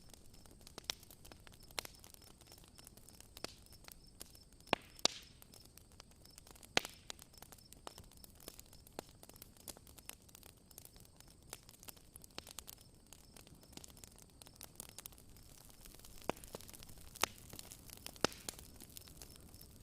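Campfire crackling: irregular sharp pops and snaps, a few clustered together at times, over a faint hiss.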